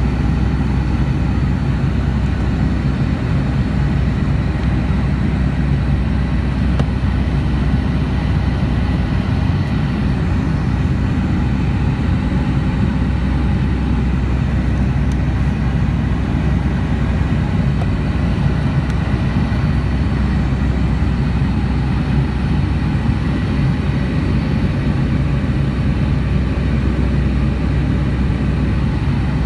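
Steady drone of a Boeing 757's jet engines and rushing air, heard from inside the passenger cabin, loud and unchanging, with a deep rumble underneath.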